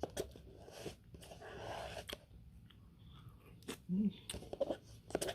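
Close-up eating sounds of a person eating a Dairy Queen Smarty Blizzard: chewing with wet mouth clicks and smacks, and a short hum-like murmur about four seconds in.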